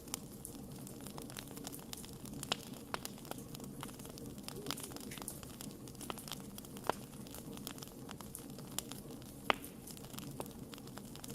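Wood fire crackling: irregular sharp pops and snaps of burning wood over a low, steady background, with a few louder pops.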